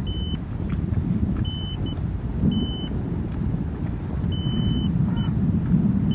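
Boat engine running with heavy wind noise on the microphone, broken by several short, high-pitched beeps.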